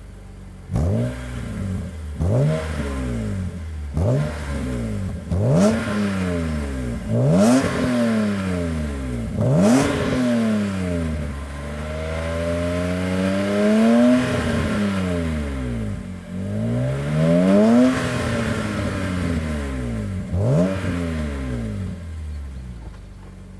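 BMW M3 E46's straight-six engine and exhaust, blipped repeatedly from idle: about eight quick revs that rise and fall sharply, and two slower, longer climbs in the middle, before it settles back to idle near the end.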